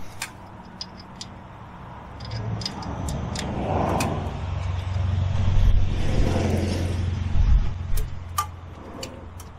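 A motor vehicle driving past, its low engine and tyre sound swelling over several seconds and fading again near the end. Scattered small metallic clicks and taps from tools are heard through it.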